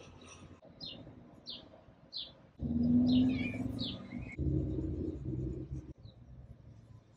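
Bird chirps, short quick sweeping calls repeated every second or so. A low rumble comes in loud about two and a half seconds in and lasts about three seconds.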